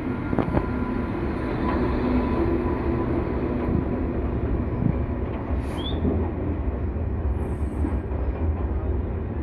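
Train running over the rails: a steady low rumble with scattered clicks.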